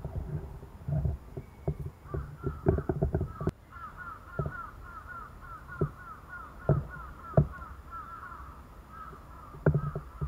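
A bird calling in a fast, steady run of short repeated notes from about two seconds in, over irregular dull low thumps.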